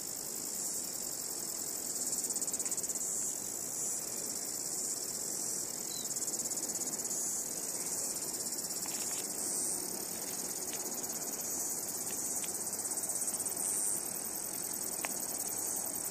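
A chorus of cicadas singing, a dense high-pitched shrill that swells and eases every few seconds.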